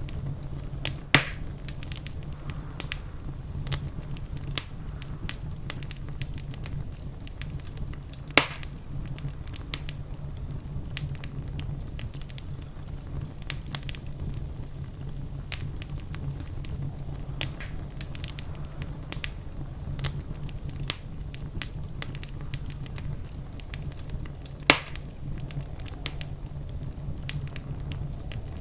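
Wood fire crackling, with a steady patter of small snaps and three loud pops: about a second in, around eight seconds in, and near the end. A steady low rumble runs underneath.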